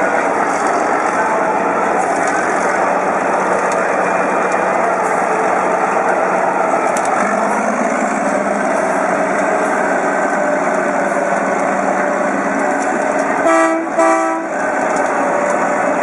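A heavy tractor engine runs steadily under load. Near the end come two short horn toots in quick succession.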